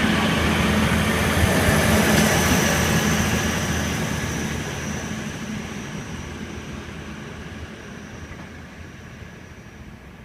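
Hunter railcar diesel multiple unit pulling out, its diesel engine and wheels on the rails loudest about two seconds in, then fading steadily as it moves away.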